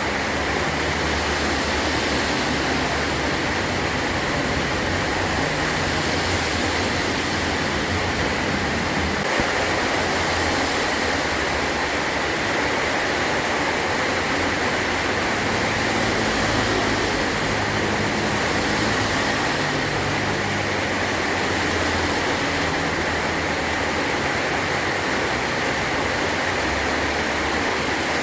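Heavy rain falling steadily on a metal roof, a dense unbroken hiss.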